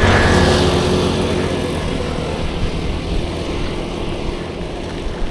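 Motor vehicle passing close, its engine loudest at the start and fading as it moves away, over steady road noise.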